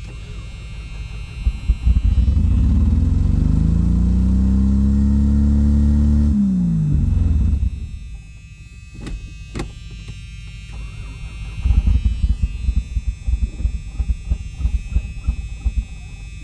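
Vehicle engine gunned while the vehicle is stuck in snow: it revs up, rising in pitch for about four seconds, then drops off sharply. After a lull it comes back in a run of uneven low pulses, failing to get the vehicle out.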